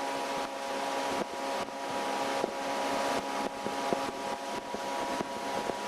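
Pontoon boat's outboard motor running steadily under way, a constant hum, with wind noise on the microphone.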